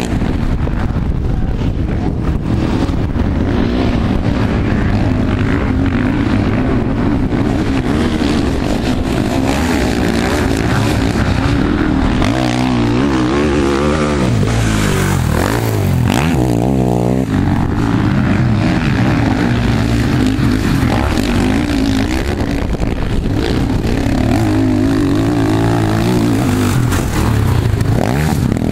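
Sidecarcross outfit engines revving hard and backing off as they race round a motocross track and over jumps. The pitch rises and falls over and over, without a break.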